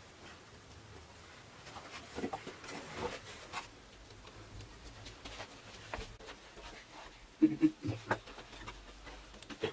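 Irregular light knocks, taps and scrapes, with a louder cluster of knocks about seven and a half seconds in.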